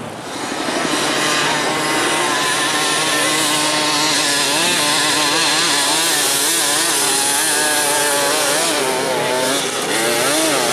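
Enduro dirt bike engines revving hard and repeatedly, their pitch rising and falling, with more than one engine heard at once. The sound swells up about half a second in and then stays loud.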